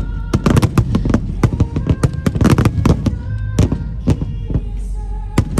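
Fireworks display in a rapid barrage: many sharp bangs and crackles in quick succession, several a second, over a deep rumble, with music playing underneath.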